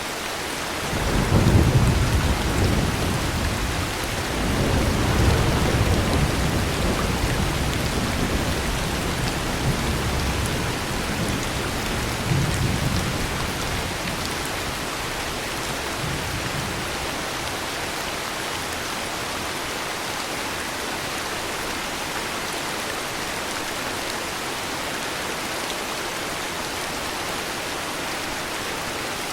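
Steady heavy rain with a long roll of thunder. The thunder swells about a second in, rises again a few seconds later, and rumbles away over the next ten seconds, leaving only the rain.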